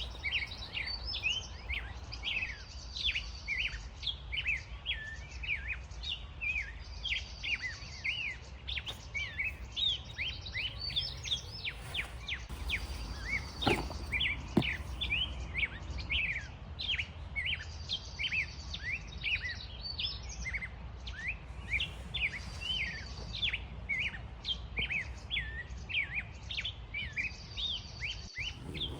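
Songbirds chirping continuously, many short quick chirps overlapping, with a higher buzzy phrase repeating about every two seconds. Two short knocks come about halfway through.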